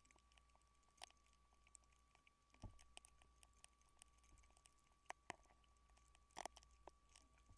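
Near silence: a faint steady high tone runs throughout, with scattered faint clicks and ticks.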